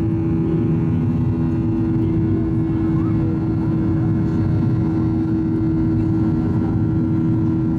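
Boeing 737-800's CFM56-7B jet engines heard from inside the passenger cabin, running at a steady high power with a constant hum over a dense rushing noise.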